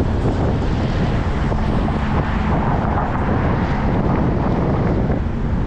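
Steady wind rushing over the microphone of a bicycle rider's camera, with road and traffic noise underneath, a little stronger in the middle.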